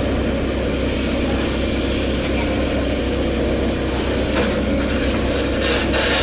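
A vehicle engine running steadily, with a few light knocks in the second half.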